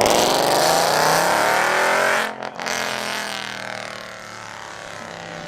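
Car engine accelerating hard, its pitch climbing for about two seconds, a brief break at an upshift, then climbing again as the sound fades with the car pulling away.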